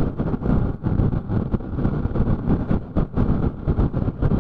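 Motorcycle riding at road speed, its engine and tyre noise mixed with uneven wind buffeting on the microphone.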